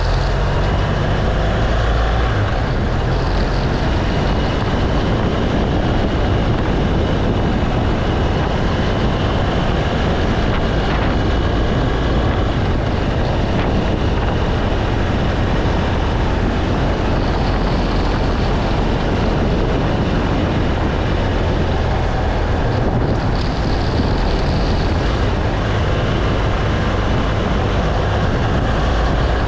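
BMW R1200 GS Adventure motorcycle on the move, its boxer-twin engine running at a steady, low-pitched drone under the rush of the ride.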